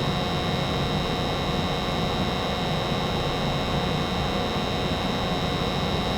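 Gas furnace running steadily, burners firing with the circulating blower on: an even whoosh and hum with a faint steady high whine.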